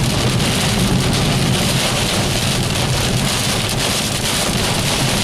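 Torrential rain beating steadily on the windshield and roof of a moving car, heard from inside the cabin, over a low steady rumble of the car on the wet road.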